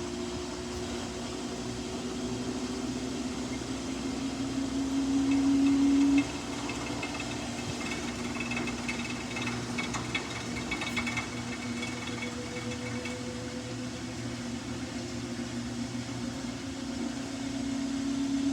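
Samsung washing machine drum motor whining as it tries to spin up a load thrown off balance by a single jacket. The whine builds, drops off suddenly about six seconds in, then keeps running and builds again near the end.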